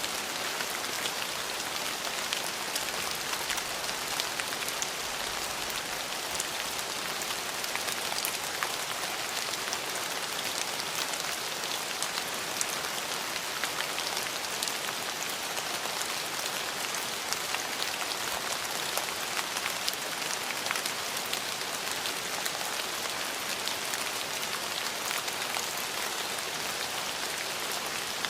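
Steady rainfall on a hard surface, an even hiss of water with many individual drops ticking through it.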